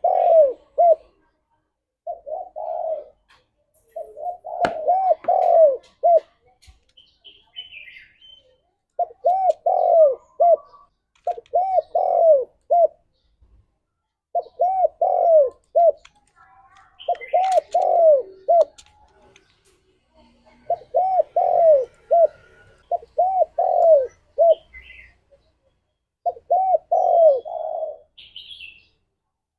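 Spotted dove (tekukur) cooing: short phrases of three or four coos repeated about every two seconds. Faint chirps from small birds come in now and then.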